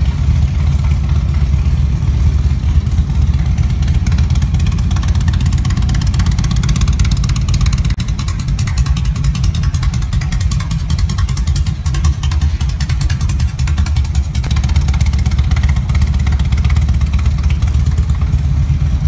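A vehicle engine running steadily, with a strong low, rapidly pulsing sound.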